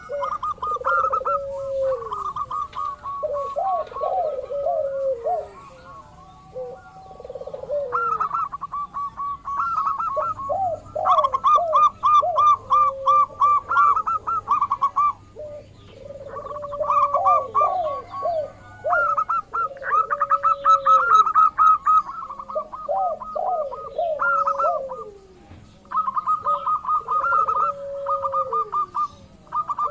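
Local zebra doves (perkutut) singing. Fast runs of repeated short notes overlap with lower, sliding coos, phrase after phrase with brief pauses.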